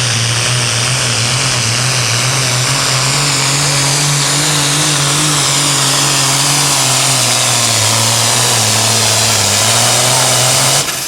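Super Farm class diesel pulling tractor running hard at full throttle under the load of the sled, its engine note slowly falling in pitch as it lugs down, with a high whine above it. The loud engine sound drops off sharply near the end.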